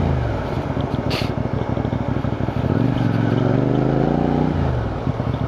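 CFMoto 450NK motorcycle's parallel-twin engine slowing down, then running at low revs with distinct firing pulses. The revs rise briefly in the middle and drop again near the end, with wind noise underneath.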